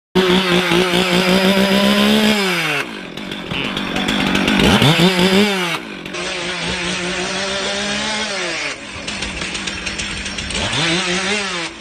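Two-stroke chainsaw with its chain removed, revving: the engine note holds high, then drops back toward idle, is blipped up and down again about halfway through, drops near the end of the second stretch, and rises and falls once more near the end, in several cut-together bursts.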